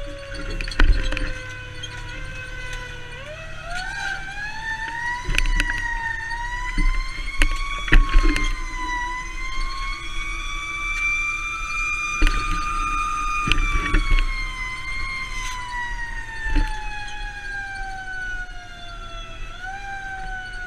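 Fire engine siren wailing: one long slow cycle that climbs in pitch, holds near the top, then slowly winds down, with a short upward kick near the end. Under it the truck's engine rumbles, with scattered knocks and rattles.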